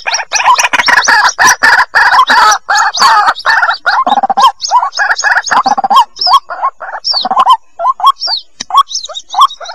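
White-breasted waterhen chicks calling: a rapid run of short, rising peeping calls from several birds at once, dense at first and more spaced out after about six seconds.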